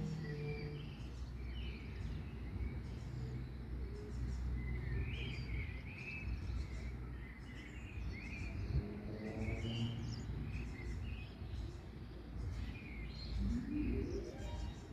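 Small birds chirping, short scattered calls, over a steady low rumble of outdoor background noise. A short rising tone sounds about nine seconds in and again near the end.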